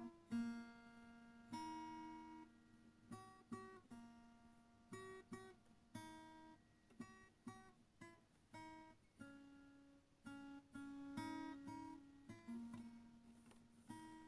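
Quiet acoustic guitar music, notes plucked one at a time and left to ring.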